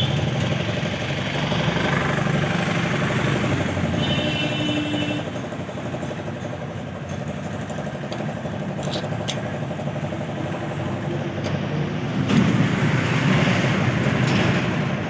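Swaraj tractor's diesel engine running steadily at idle, with a brief higher-pitched tone about four seconds in.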